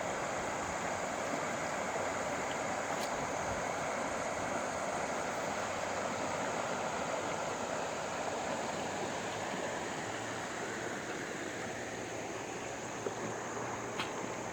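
Steady rush of water and wind from a small boat under way on the river, easing slightly in the second half, with a faint steady high-pitched hum above it.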